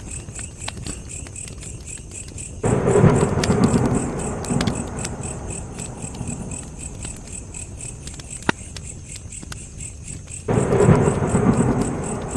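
Wood fire burning with scattered small crackles and pops, over a steady high, evenly pulsing chirping. Twice, a few seconds in and again near the end, a sudden low rumbling swell rises and fades over a couple of seconds.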